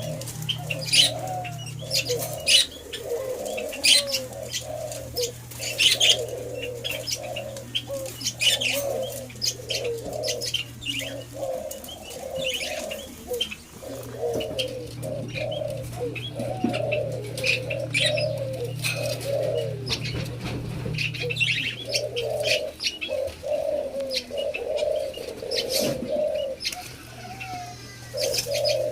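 Doves cooing over and over in a continuous run of low notes, with many sharp clicks mixed in. A steady low hum drops out and comes back several times.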